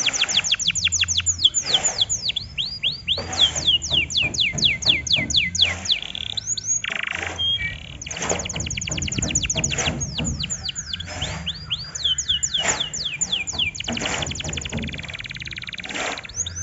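Domestic canary singing a pancingan song to provoke other canaries: fast trills of rapid downward-sweeping high notes, phrase after phrase with short breaks between, over a faint low hum.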